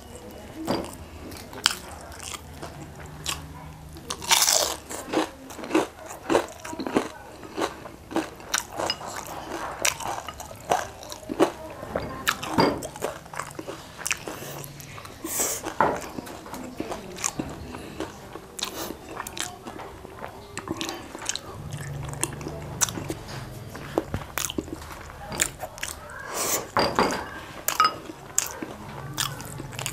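Close-up chewing of crisp deep-fried battered chicken wings and rice: irregular crunches and wet mouth clicks, several a second at times.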